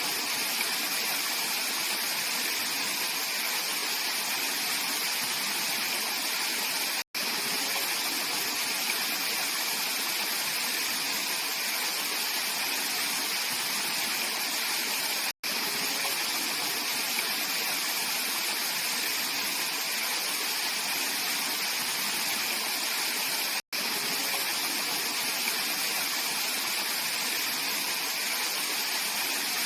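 Mountain valley stream flowing in a steady, full rush of water, broken three times by a split-second gap of silence about eight seconds apart.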